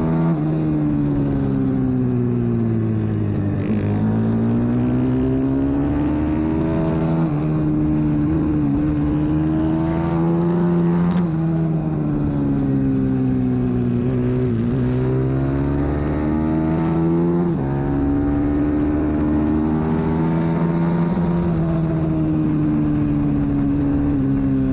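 125cc single-cylinder four-stroke pit bike engine at racing speed, heard onboard. The engine note climbs and drops again every three or four seconds as the bike accelerates and shifts or brakes through corners.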